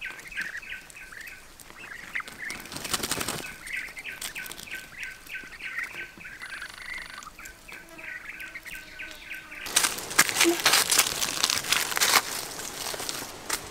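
A bird chirping over and over, about three short chirps a second. About ten seconds in the chirping stops and a loud, scratchy noise takes over.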